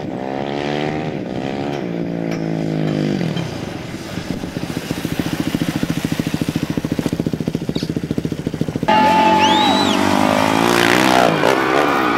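Dirt bike engine revving up and down, then running with a fast, even pulsing note. About nine seconds in it cuts abruptly to louder music.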